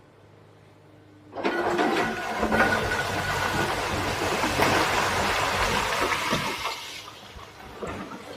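Excavator engine running low in the background; about a second in, a loud rushing pour of loose material lasting about six seconds, fading into scattered rattles near the end.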